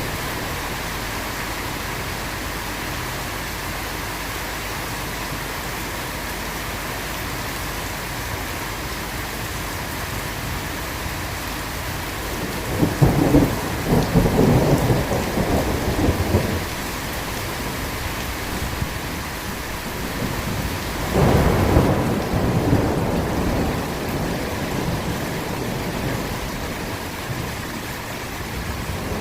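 Steady heavy rain with two rolls of thunder, the first about halfway through and lasting a few seconds, the second shorter, a little later.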